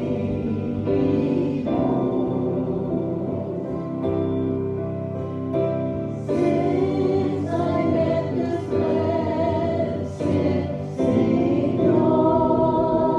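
A group of voices singing a gospel hymn together in chorus.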